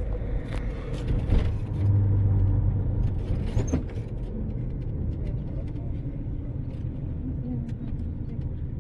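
Car engine and road noise, a steady low rumble with a louder low hum for about a second around two seconds in and a few sharp clicks.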